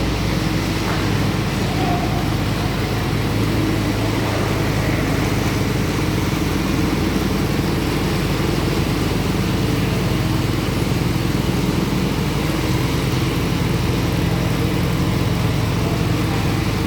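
Concrete power trowel's engine running steadily at an even pitch.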